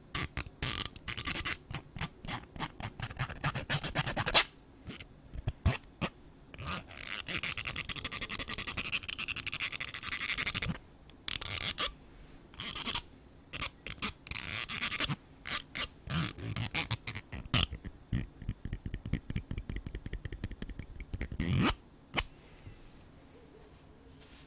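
Close scratching and brushing in quick runs of short strokes and clicks, with pauses between the runs, stopping a few seconds before the end. Crickets trill steadily and high-pitched underneath, and are left alone once the scratching stops.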